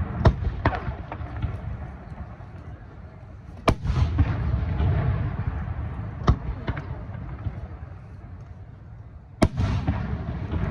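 Aerial fireworks shells bursting: a series of sharp bangs, the biggest about four and nine seconds in, each followed by a low rolling rumble.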